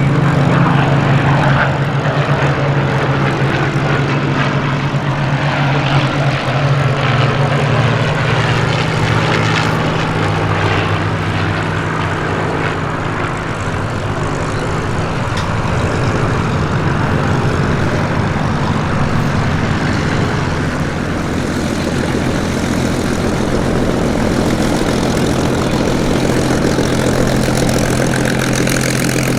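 Piston engines of a formation of Spitfire and Hurricane fighters droning steadily, their pitch sliding slowly as the aircraft pass.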